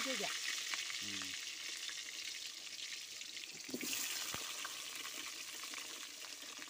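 Potato chunks sizzling in hot oil in a kadai, freshly dropped in. The sizzle slowly dies down, with a brief flare about four seconds in.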